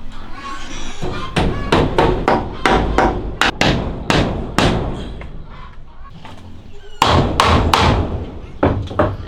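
Tool blows striking wood, about three knocks a second in two runs, with a pause in the middle.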